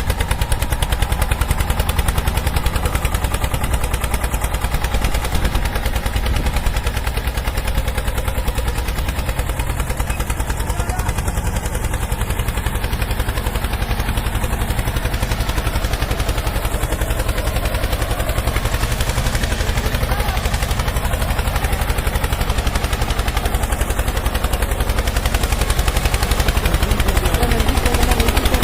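A tractor engine running hard with a rapid, even exhaust beat, growing a little louder near the end.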